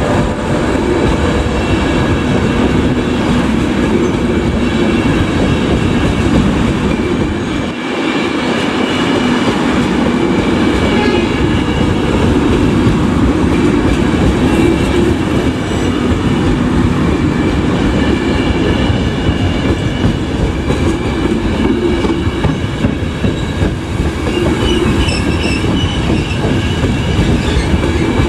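A long rake of passenger coaches rolling past close by, wheels clattering over rail joints and points. A thin, high wheel squeal comes in near the end.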